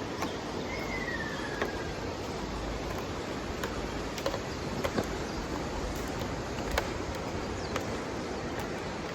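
A ruddy kingfisher gives one faint descending call, a falling kyororo about a second long, near the start. It sits over steady rushing background noise, with scattered light clicks.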